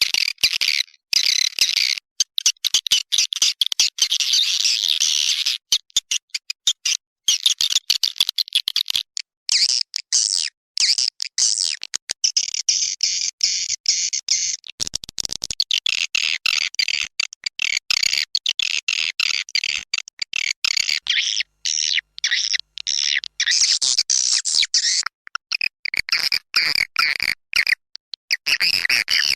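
Swiftlet lure call for swiftlet houses: a recorded swiftlet chorus of dense, rapid, high-pitched twittering and chirping, broken every so often by brief abrupt gaps.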